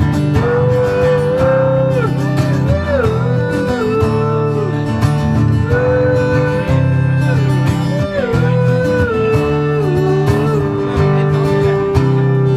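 Live blues instrumental break: a strummed acoustic guitar backing under a lead melody that bends and slides in pitch, settling into a long held note near the end.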